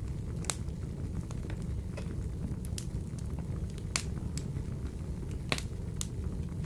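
Wood fire burning in a wood-burning stove: a steady low rumble of flames with sharp crackles and pops from the burning logs, a handful of them louder than the rest.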